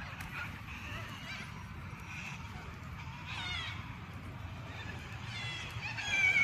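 Birds calling: a few harsh calls that slide down in pitch, about three seconds in and twice more near the end, over a steady low rumble.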